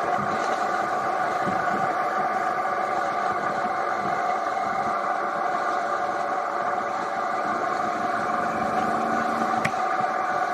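Triumph Tiger 800 XRT's three-cylinder engine running at a steady cruise, over a haze of wind and road noise. A single sharp click near the end.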